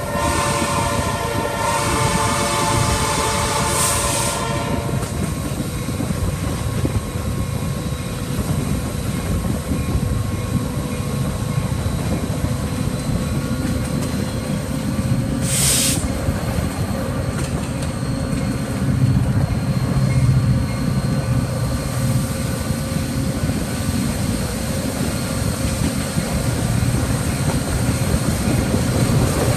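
A train horn sounds a held chord that stops about five seconds in, then the train runs on with a steady low rumble and wheel clatter. A brief high hiss comes twice, about four and sixteen seconds in.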